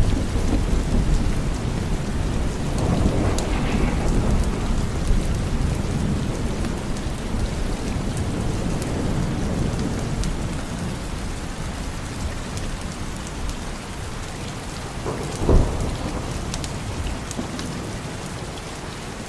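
Steady heavy rain with rolling thunder: a low rumble dies away early on, another swells about three seconds in, and a sharper thunderclap comes about fifteen seconds in.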